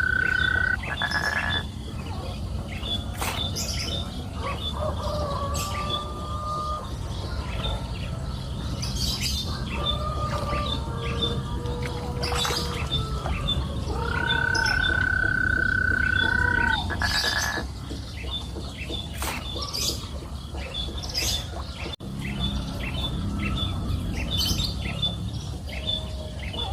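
Nature ambience of birds calling over a fast, even chirping chorus and a steady low rumble; a long steady whistled note sounds near the start and again about halfway through.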